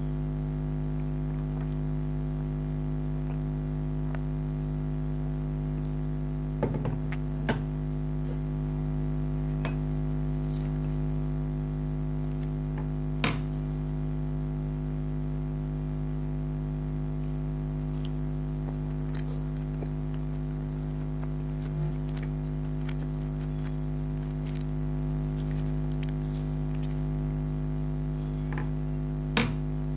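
Steady low hum throughout, with a few short, sharp eating sounds: mouth clicks and bites, about four times.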